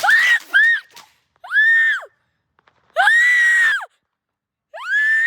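A person screaming: about five shrill cries, two short ones at the start and then three longer ones, each rising and falling in pitch.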